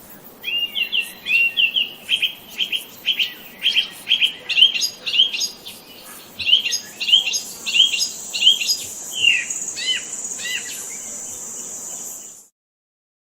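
A songbird chirping, a rapid series of short, repeated notes, roughly two or three a second. About halfway through a steady high-pitched whine joins in, and everything cuts off suddenly shortly before the end.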